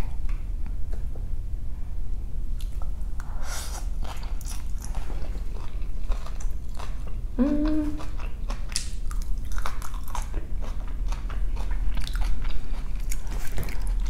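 Close-miked chewing of stir-fried rice noodles (chicken pad thai), with many short wet mouth clicks and smacks, and a short hum about halfway through.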